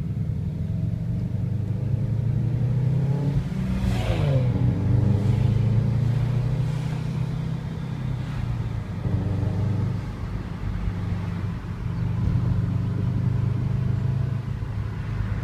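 Subaru's engine and exhaust running under way, heard from the car following it, a steady low drone. About four seconds in the revs dip and climb again, as in a gear change.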